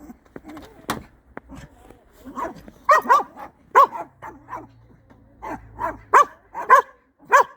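Dogs barking back and forth in a dozen or so short barks, some in quick pairs, loudest in the second half.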